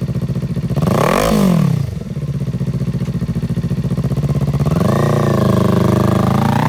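2021 Kawasaki Ninja 400's parallel-twin engine, breathing through an aftermarket Leo Vince exhaust, idling. It is blipped once about a second in, then revved up more slowly from about five seconds in, still climbing at the end.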